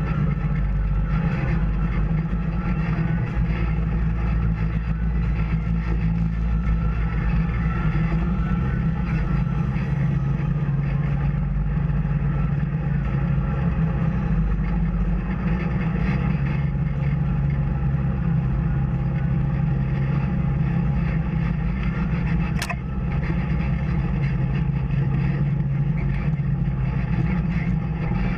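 Off-road vehicle engine running steadily on a trail ride, with a low even drone. A single sharp click is heard about three-quarters of the way through.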